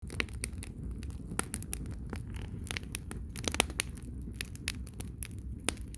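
Wood bonfire crackling, with many irregular sharp pops over a low steady rumble.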